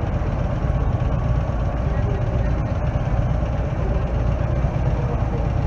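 Steady low rumble of car engines as a classic car drives up the street toward the corner, with faint voices of onlookers.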